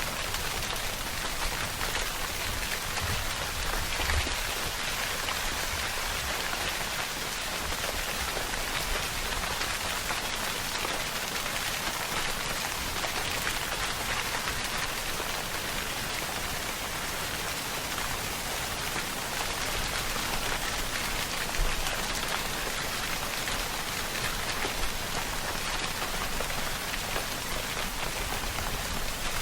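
Steady rainfall pattering on a surface, a dense, even hiss of drops with a few slightly louder drops here and there.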